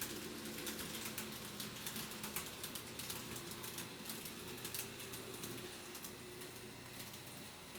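TOMIX N scale model train running on track: a rapid, irregular clicking of small wheels over the rail joints over a faint motor hum, growing a little quieter in the second half.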